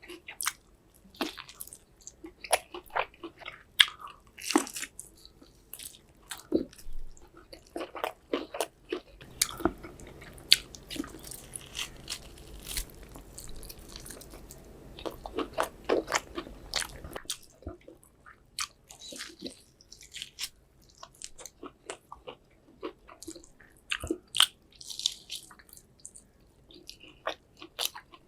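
Close-miked eating of big chunks of beef: irregular biting, chewing and wet mouth smacks, a quick sharp click every moment or so.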